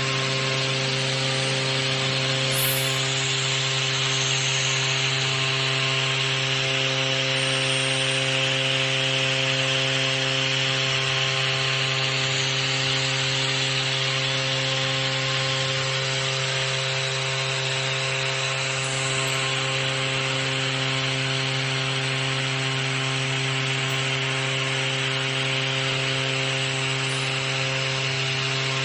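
CNC router spindle running steadily while machining a plate, a constant hum with several steady tones over an even cutting hiss.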